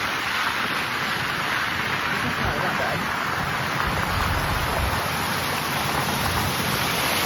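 Steady rain, an even hiss, with a few low rumbles in the middle.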